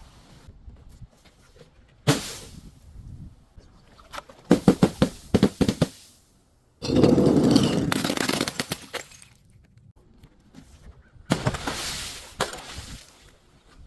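Glass bottles and other crunchy objects being crushed and broken, in separate bursts. There is a sharp crack about two seconds in and a quick run of cracks around five seconds. After a sudden silence comes a long, dense crunch in the middle, and another burst of crunching follows near the end.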